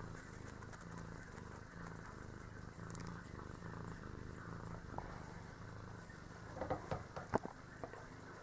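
Domestic cat purring steadily, swelling and easing about once a second with its breathing. A few soft taps or rustles come about two-thirds of the way through.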